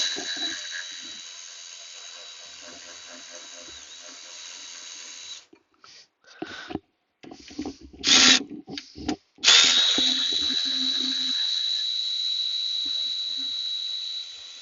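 Cordless power driver running twice to back out two small bolts, each run a steady whine of about five seconds. Between the runs come a few short knocks and clatter.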